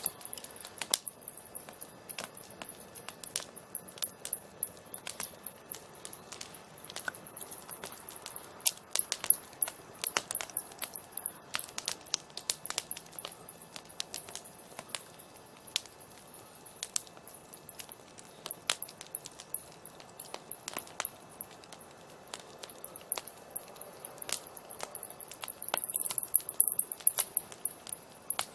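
Campfire crackling: burning wood giving off irregular sharp pops and snaps over a faint hiss, coming thicker and louder near the end.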